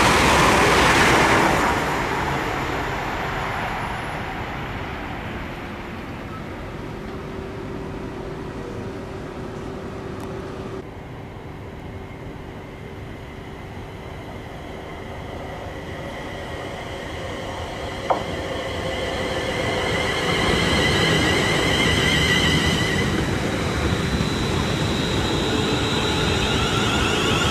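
Electric trains at a main-line station: a passing train fades away in the first couple of seconds, leaving a low rumble and a steady hum. A sharp click comes about two-thirds of the way through, then another train approaches, its noise growing with wavering high whining tones.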